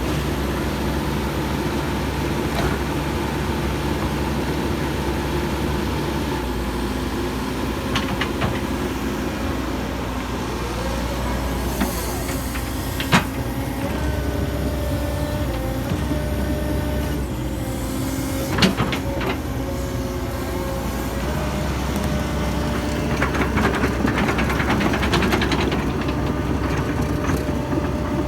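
Hitachi 135US excavator's diesel engine and hydraulics running steadily under load as the machine tracks up a slope, with a held hydraulic whine. A couple of sharp knocks come about halfway through.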